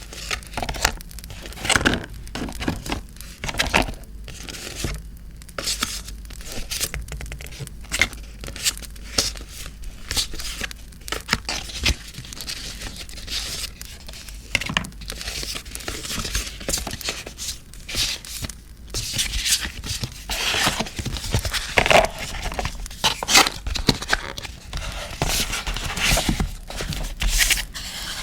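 Paper being torn and crinkled by hand: a busy, irregular run of sharp rips and rustles.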